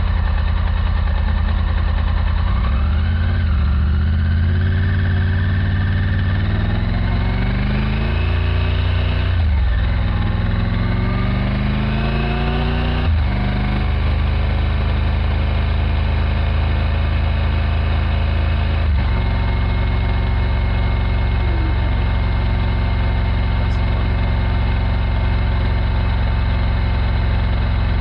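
Triumph Tiger 900 GT Pro's three-cylinder engine accelerating through the gears. Its pitch climbs and drops back at quick upshifts about a third of the way and again about halfway through. After one more change it settles into a steady cruise.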